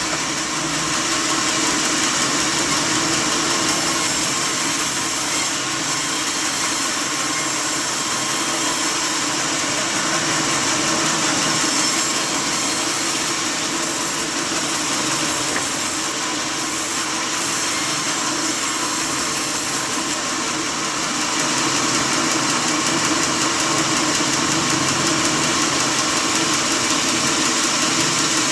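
Sawmill machinery running steadily: an even mechanical hum under a loud, continuous hiss.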